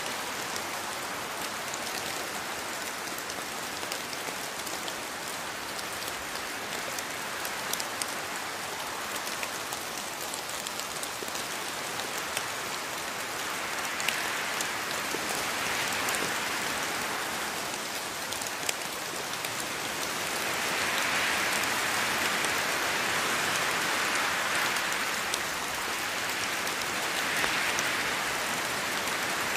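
Steady rain falling on foliage, an even hiss dotted with individual drop patters, swelling a little louder a few times in the second half.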